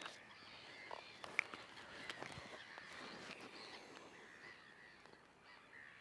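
Faint calls of wild birds over quiet outdoor ambience, with a brief sharper note about one and a half seconds in.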